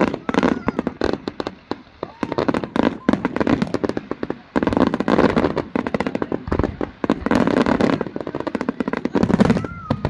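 Fireworks display: rapid volleys of bangs and crackling pops coming in waves of a second or two, with short lulls between them.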